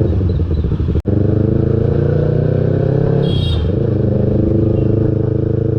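A Yamaha R3's parallel-twin engine runs through a loud aftermarket exhaust while the bike is ridden. The engine note climbs steadily, dips briefly about three and a half seconds in, then holds steady. The sound cuts out for an instant about a second in.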